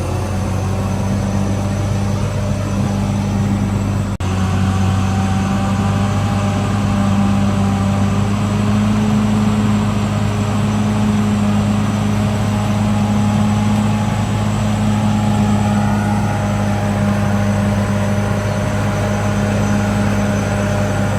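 CAT D6R XL bulldozer's diesel engine running at a steady speed, a constant low drone with a fainter whine above it, with one brief dropout about four seconds in.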